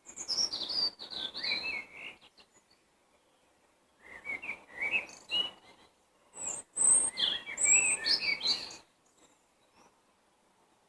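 A songbird singing three bursts of quick, varied, high chirping notes, with short pauses between them.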